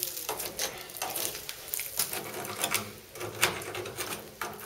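Quick, irregular scraping and clicking strokes, several a second, of hand work with a tool.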